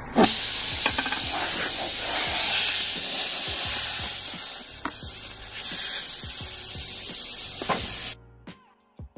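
Pressurised air hissing out of a punctured car tire through the hole as a rope tire plug is pushed in on its insertion tool. The hiss is loud and steady and stops abruptly about eight seconds in.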